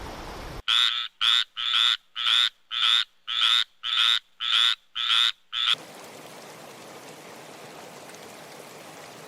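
A frog croaking in a fast, even series of about ten loud calls, two a second, which stop suddenly about six seconds in, leaving a faint steady hiss.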